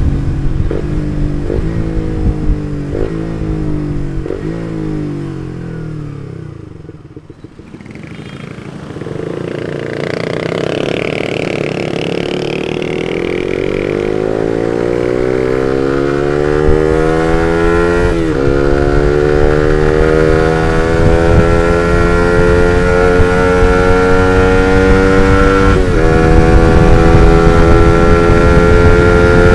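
Suzuki GSX-R150's single-cylinder four-stroke engine through an R9 Misano aftermarket exhaust, ridden: it revs up and drops back in quick shifts, dies down to a low, quiet note for a couple of seconds, then pulls away in one long rising climb, with brief dips at gear changes about two-thirds of the way through and near the end.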